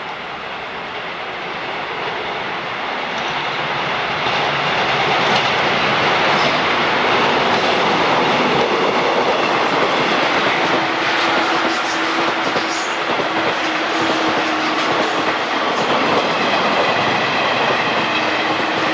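A train running through the station on the Tohoku Main Line, its wheels and cars rolling over the track. The sound builds over the first five seconds as the train draws close, then stays loud and steady. A steady humming tone joins it about ten seconds in.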